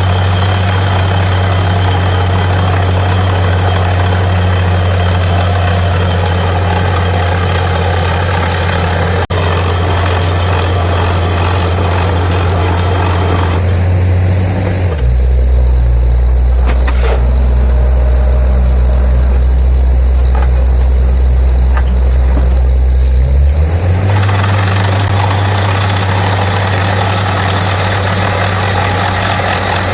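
Heavy diesel engine of a truck-mounted borewell drilling rig running steadily, with a loud low hum and a hissing noise above it. About fifteen seconds in, the engine note drops lower and the hissing thins out for roughly eight seconds, then both return as before.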